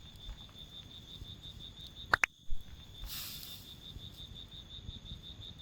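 A cricket chirping in a steady, rapid even pulse, high-pitched, with a low rough background. A single brief sharp click sounds about two seconds in.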